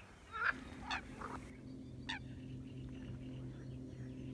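Water birds giving short swooping calls, three in quick succession in the first second and a half and one more about two seconds in, over a steady low hum.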